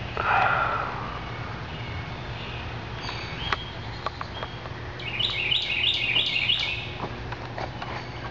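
Birds chirping, with a run of about half a dozen quick, evenly repeated high chirps about five seconds in and scattered single chirps, over a steady low hum. A brief, louder, rougher sound comes right at the start.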